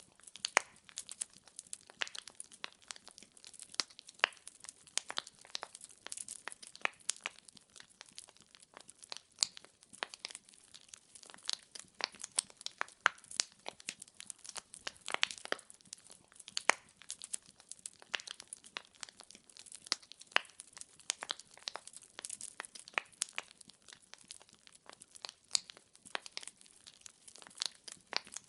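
Wood fire crackling in a fireplace: logs popping and snapping in quick, irregular clicks over a soft hiss.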